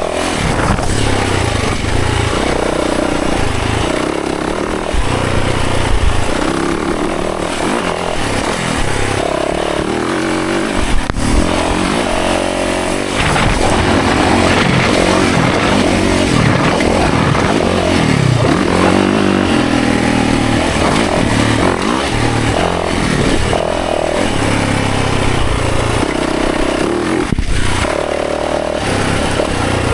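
Dirt bike engine being ridden hard on a trail, its revs climbing and dropping over and over as the throttle is worked, over steady wind and riding noise.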